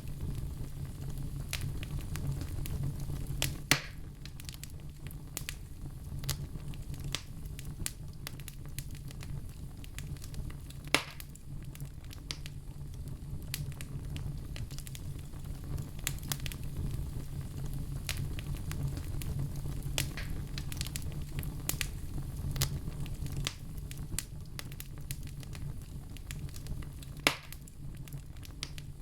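Fire crackling in a stove, with many small irregular crackles and three louder sharp pops, over a steady low rumble.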